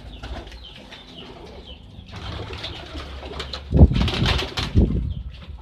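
Caged birds chirping in short, repeated calls, with a loud rustling clatter about four seconds in.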